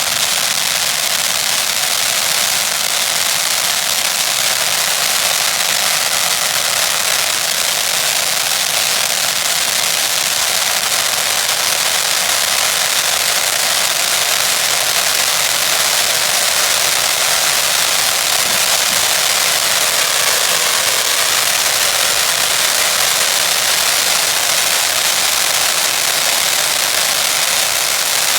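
Fireworks giving off a steady, dense hiss and crackle with no separate bangs standing out.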